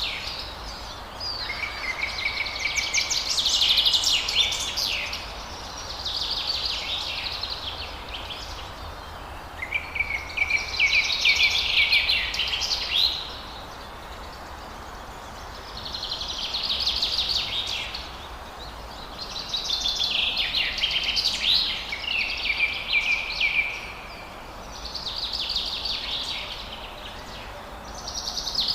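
Forest songbird song: rapid, high trilled phrases of two to four seconds each, about seven of them, separated by short pauses, over a steady background hiss.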